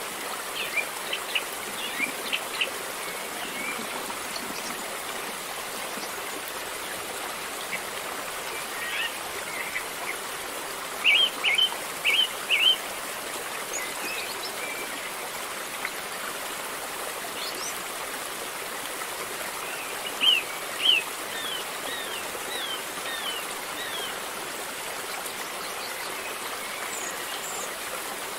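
River water flowing steadily. Birds chirp over it in short runs, loudest as four quick chirps about eleven seconds in and two more around twenty seconds in.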